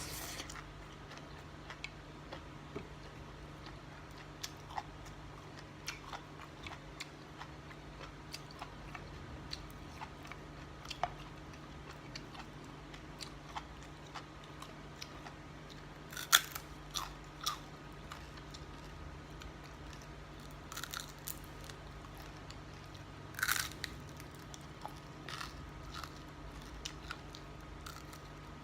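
A person chewing and biting food, with scattered small clicks and a few sharper ticks, over a steady low hum.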